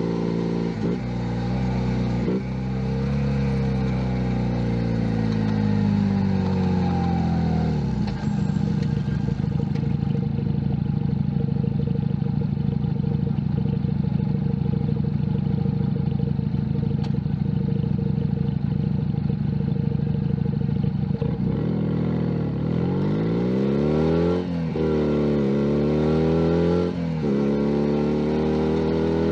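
Junak M11 Cafe 125 cc motorcycle engine on the move: revs falling over the first several seconds as the bike slows, holding steady for about thirteen seconds, then rising again through the gears with two upshift breaks near the end.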